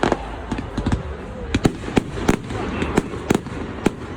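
Fireworks display: an irregular string of sharp bangs, about a dozen in four seconds, over a steady background rumble.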